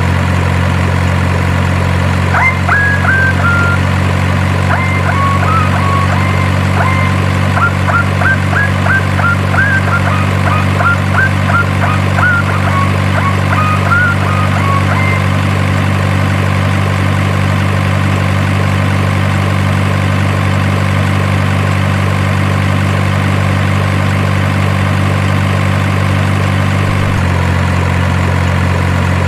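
Steady low engine idling drone, changing slightly near the end, with a run of short high chirps from about two to fifteen seconds in.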